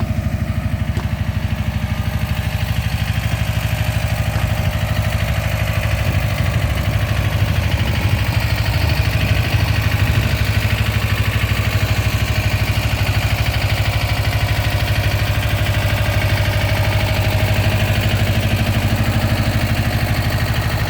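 A vehicle engine idling steadily, with a fast, even pulse of firing strokes.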